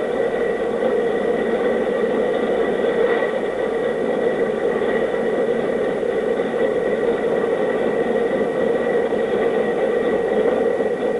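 A steady, even mechanical whir with a constant thin high whine over it.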